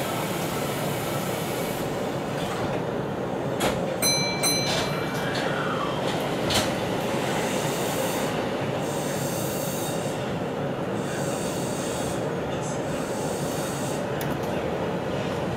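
Hanshin 1000 series electric train running, heard from inside the driver's cab as it pulls away from a station: a steady rumble of wheels on rails. A short tone sounds briefly about four seconds in.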